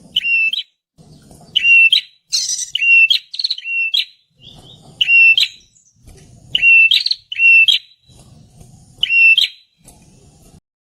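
Prinia (perenjak) singing: loud, short whistled phrases about half a second each, a flat note with a sharp upward flick at the end. The phrases repeat every second or two, sometimes two in quick succession.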